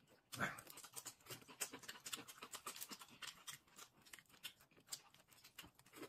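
Faint eating sounds: irregular small clicks and wet smacks of chewing and lips, with a slightly louder smack about half a second in.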